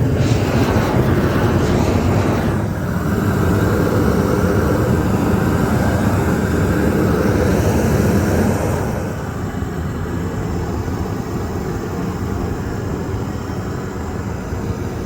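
A loud, steady mechanical roar with a deep rumble, easing somewhat about nine seconds in.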